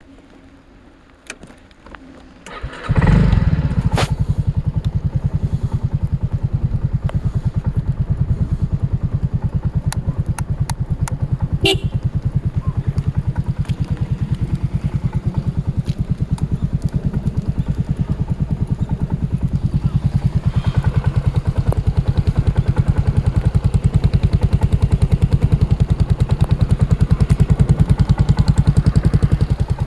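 Yamaha Majesty 250 scooter's single-cylinder four-stroke engine starting about three seconds in, then idling steadily with an even pulsing beat.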